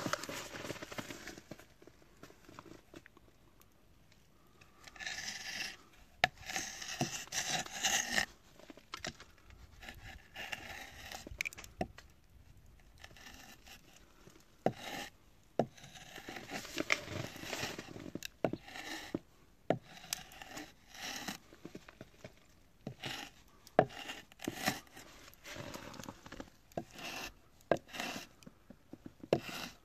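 Wood being handled and worked by hand: irregular scraping, rubbing and crinkling with scattered sharp knocks and clicks.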